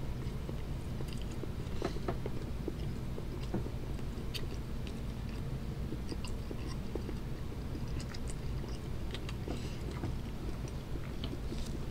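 Chewing and biting into a milk chocolate candy bar topped with mealworms, with many small crunches and clicks scattered throughout.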